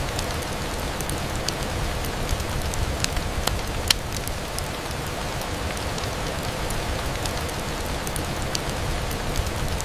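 Steady rain falling against a window, with scattered sharp ticks, one louder about four seconds in.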